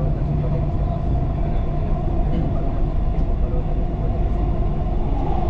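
Dubai Metro train running between stations, heard from inside the carriage: a steady rumble with a constant hum over it.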